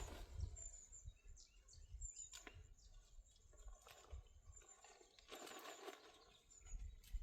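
Near silence: faint outdoor ambience with a few faint high chirps, a single sharp tick about two and a half seconds in, and soft scuffing noises.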